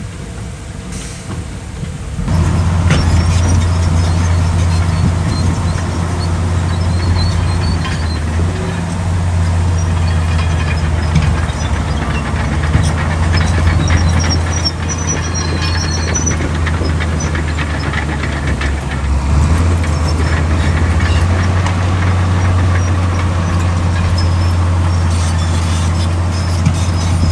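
Heavy diesel earthmoving machinery running steadily, jumping sharply in loudness about two seconds in, with high squeaks and metallic clinks over the engine drone.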